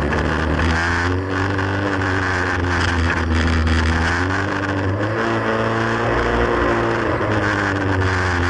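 Classic Mini's A-series four-cylinder engine running at low revs, heard from inside the stripped race car's cabin, the revs rising and falling gently a couple of times as the car creeps along.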